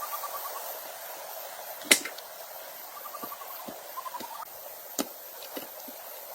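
Steady hiss with two runs of rapid, pulsed chirping calls, and a few sharp knocks, the loudest about two seconds in.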